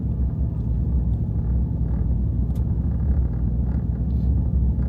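Road rumble of a vehicle being driven, heard from inside the cabin: a steady low drone with a few faint rattles and knocks from the uneven road.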